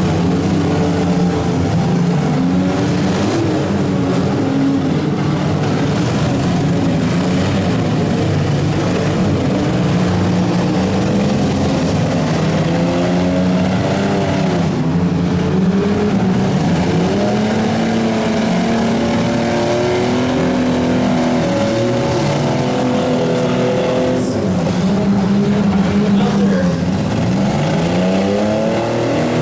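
Engines of several midsize vans, pickups and SUVs revving hard in a demolition derby, their pitches rising and falling and overlapping.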